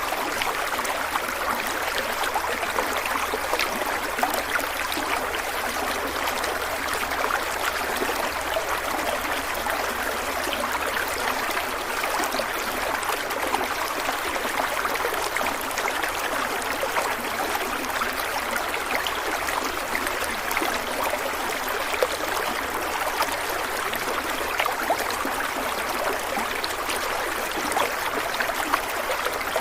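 Running water from a stream flowing over rocks, a steady splashing and trickling hiss that does not change.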